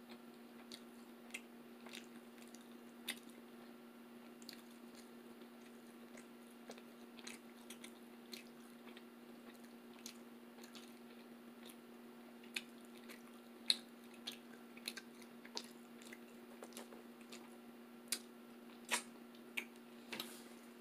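Close-miked chewing of food: faint, scattered wet mouth clicks and smacks that come more often in the second half. A steady low hum runs underneath.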